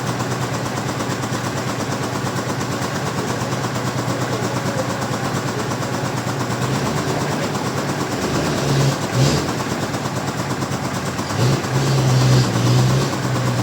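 Sawmill machinery engine running steadily, its low hum swelling and rising in pitch briefly about nine seconds in and again from about eleven and a half seconds, as if taking load.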